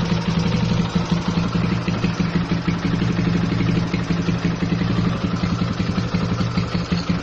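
2008 Yamaha Scorpio's 225 cc single-cylinder four-stroke engine idling with an even, steady beat, running normally.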